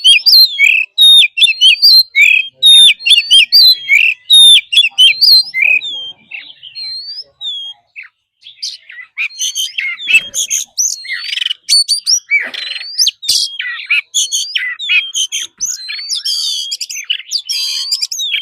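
Oriental magpie-robin singing: a fast, varied run of sweeping notes mixed with rasping phrases. It eases off for a couple of seconds about six seconds in, then comes back dense and continuous.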